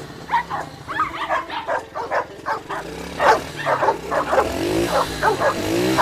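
A dog barking and yipping in quick, repeated short barks, several a second, over a faint low hum.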